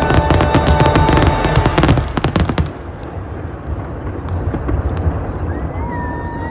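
Fireworks display: a dense barrage of rapid bangs and crackles that stops abruptly about two and a half seconds in. A low rumble with a few scattered pops follows, and a brief gliding whistle-like tone sounds near the end.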